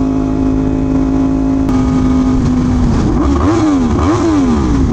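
Yamaha R1M's crossplane inline-four running at a steady note, then revved up and down in several quick swings over about the last two seconds. The hiss of tyres on a water-covered road runs underneath.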